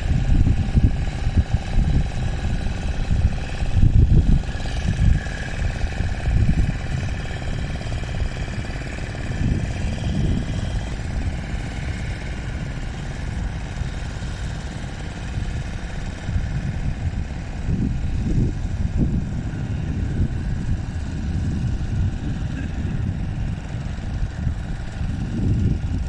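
Boat engine running steadily, with a low, uneven rumble underneath.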